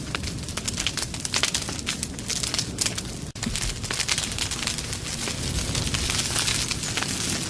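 Wood fire crackling, with dense, irregular pops and snaps over a steady low rumble. There is a split-second dropout about three seconds in.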